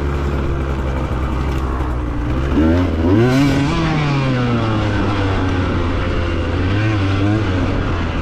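Husqvarna two-stroke dirt bike engine running at a steady low speed, then revved up about two and a half seconds in and easing back down, with a smaller rev near the end.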